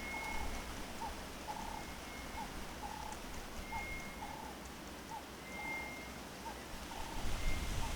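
Birds calling: a steady repeated series of low notes, short and longer ones alternating about twice a second, and a separate thin, high, held whistle every second or two, over a constant background hiss. A low rumble comes in near the end.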